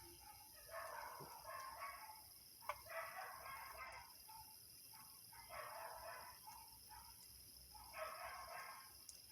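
An animal calling four times, each call about a second long and rising and falling in pitch, with a few short calls between. Steady insect chirring runs beneath.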